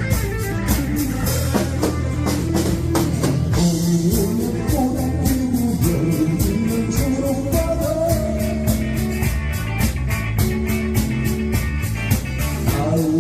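Live band music with a steady rock beat on a drum kit under electric guitar and bass, playing a 7080-era Korean pop song.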